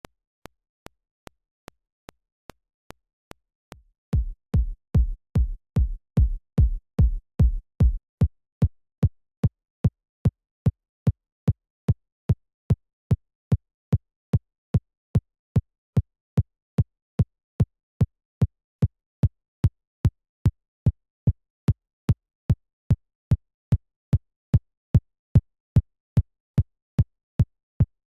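Synthesized electronic kick drum repeating on every beat, a little over two hits a second. For about the first four seconds each beat is only a thin click; then a deep low body comes in, and from about eight seconds in each hit is shorter and tighter.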